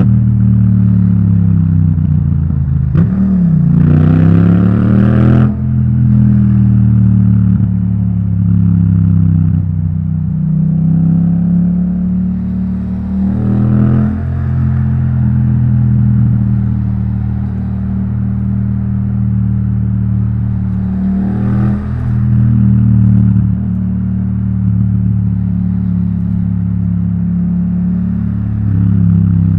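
Yamaha MT-07's parallel-twin engine running through an Akrapovic titanium exhaust while riding. The revs drop and climb again a few seconds in, once more near the middle and again about three-quarters of the way through, between stretches of steady running.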